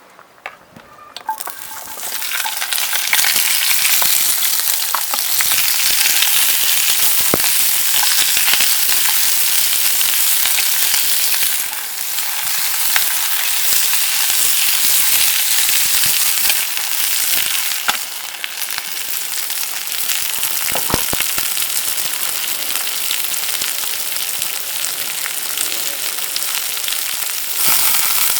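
Food frying in hot oil in a pan, the sizzle rising loudly about two seconds in and holding steady, with a few light clicks.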